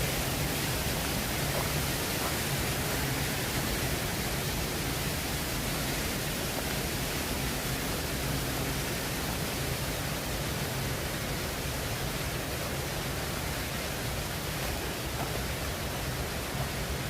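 Waterfall water rushing, a steady even roar with no breaks.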